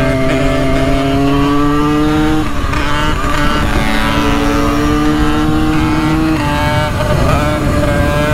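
Simson single-cylinder two-stroke moped engine pulling under load, its pitch climbing steadily and dropping sharply about two and a half seconds in and again about six and a half seconds in, as at gear changes.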